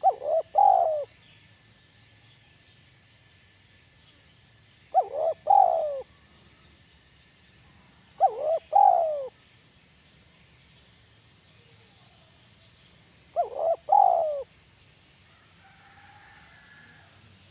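Spotted dove (tekukur) cooing: four short three-part coos spaced a few seconds apart, in the single-final-note 'kuk 1' call type. A faint steady high hiss lies behind them.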